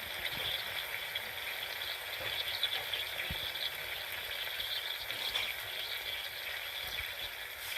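Food frying in a hot pan: a steady crackling sizzle with scattered small pops.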